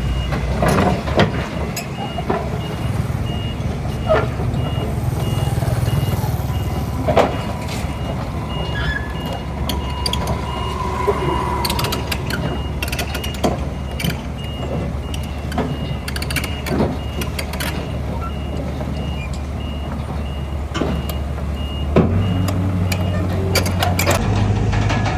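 Heavy diesel earthmoving machinery running, with a reversing alarm beeping at a steady rate and repeated metallic clanks. The beeping stops near the end and the engine note steps up.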